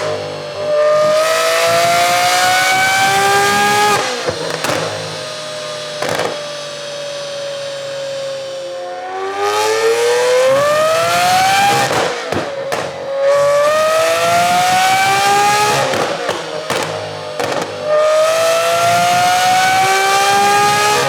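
Lamborghini Aventador S 6.5-litre V12 with a Gintani F1 straight-pipe exhaust, revving hard on an E85 tune. The pitch climbs steeply in one high-pitched pull after another, each broken by a sharp crack. About a third of the way in there is a slower falling stretch as the revs drop.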